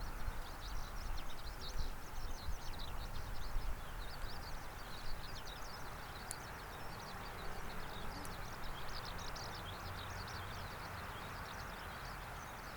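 Many small birds chirping continuously over a low, uneven rumble that eases off after the first few seconds.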